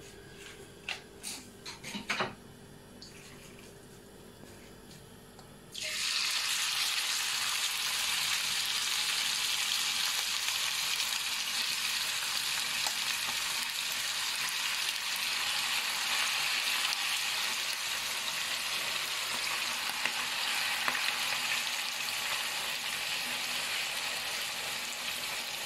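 A few clicks, then hot oil in a frying pan starts to sizzle suddenly about six seconds in as marinated chicken pieces go in. The sizzle carries on steadily while the pieces are stirred.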